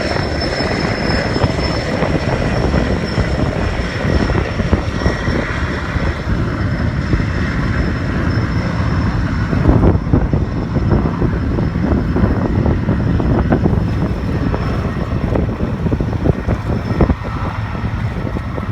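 Firefighting helicopter overhead: a thin steady turbine whine over dense rotor and engine noise, with the whine fading away about halfway through, all over a steady low rumble.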